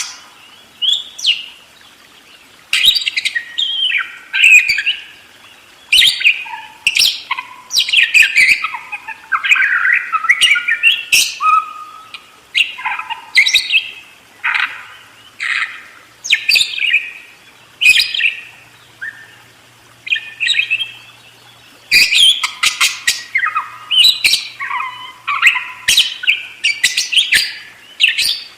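Budgerigar (parakeet) chattering in long, fast runs of chirps, warbles and squawks, with short lulls between the bursts.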